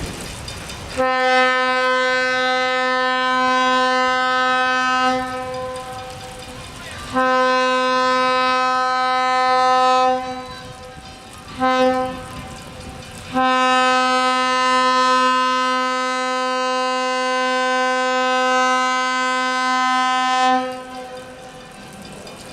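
Locomotive sounding a single-note warning signal in the grade-crossing pattern: two long blasts, one short, then a final long one held for about seven seconds. Quieter train running noise fills the gaps.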